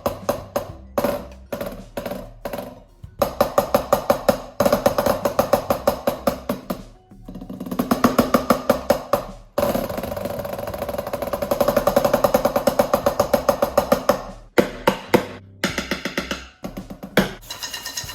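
Drumsticks played on a 12-inch Donner practice pad with a snare-like crack and a slight ringing tone: fast rudiment patterns with accented strokes, short pauses, building rolls and one long sustained roll in the middle.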